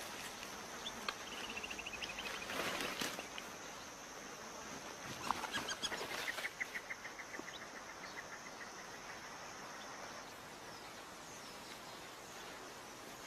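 Outdoor wildlife ambience: a steady high-pitched insect drone, with two trilling calls made of rapid, evenly repeated chirps, one about two seconds in and a longer one from about six to nine seconds. A few soft rustles come near the first trill and around the fifth second.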